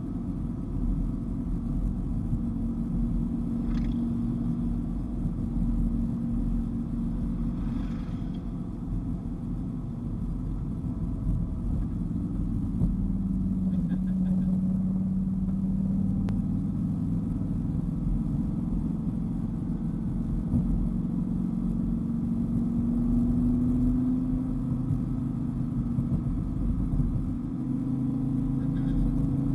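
Dodge Viper GTS's V10 engine running steadily under way, with road rumble beneath; its pitch drifts down and up a few times as the revs change.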